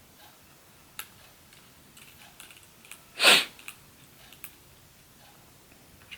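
Small clicks and taps as a phone and small repair tools are handled and set down on a hard surface, with one short, louder rush of noise about three seconds in.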